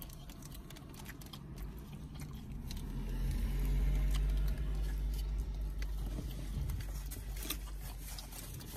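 Close-up chewing and mouth sounds of someone eating noodles, with scattered small clicks and smacks. A low rumble swells up in the middle and fades away again.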